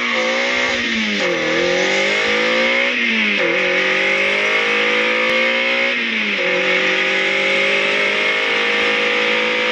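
Ariel Nomad's engine accelerating hard through the gears, heard from the cockpit. Its pitch climbs steadily and drops sharply at three upshifts, about one, three and six seconds in, with a steady high whine over it.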